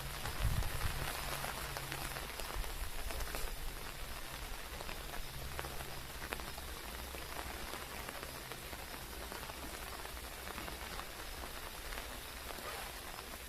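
Steady rain falling, a continuous hiss made of many small drop ticks, with a brief low bump about half a second in.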